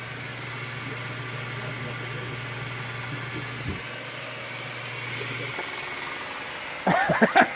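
Craftsman 12-inch lathe running with an oversized 9-inch chuck, a steady low hum with one knock midway; the hum cuts off about five and a half seconds in. A person's voice breaks in loudly near the end.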